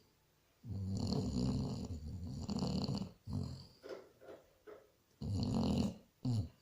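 Basset hound snoring in its sleep: one long snore lasting over two seconds, a few shorter breaths, then another snore near the end.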